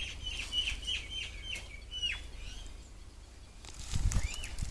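Birds chirping: a quick run of short, high, falling notes, about four a second, for the first two seconds, then a few more near the end. A brief low rumble and rustle comes about four seconds in.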